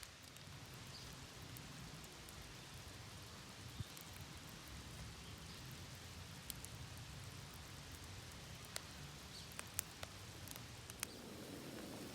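Campfire burning with a steady low hiss and a few sharp wood crackles, most of them in the second half.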